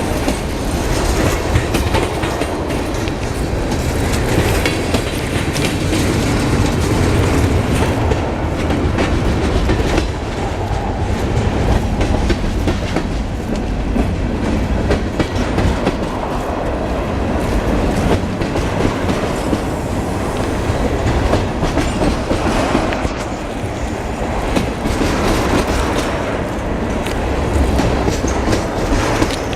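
Freight train rolling past, a loud, steady run of wheel and rail noise from the passing cars with no break.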